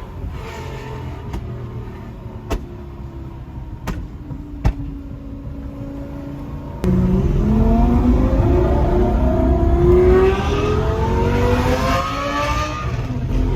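Lamborghini Gallardo Superleggera's V10 with aftermarket exhaust, off the throttle with a slowly falling drone and a few sharp exhaust pops. About seven seconds in it suddenly goes to full throttle, the pitch climbing steeply, dipping at an upshift and climbing again.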